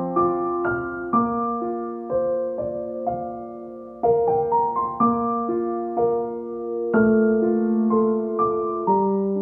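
Background music: a slow, gentle solo piano with sustained notes that ring and fade, new notes and chords struck every half second or so.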